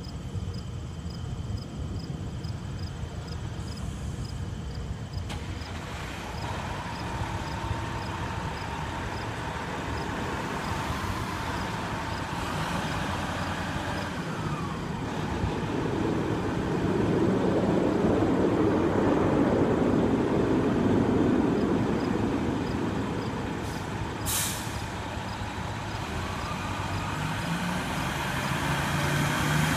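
Fire engine's diesel engine and road rumble, swelling louder in the middle, with a siren wailing faintly. A short air-brake hiss about two-thirds of the way through, and the siren grows louder near the end.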